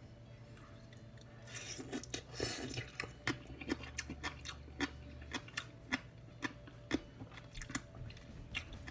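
A person chewing a mouthful of crunchy green papaya salad (som tum): crisp, irregular crunches several times a second, starting about a second and a half in.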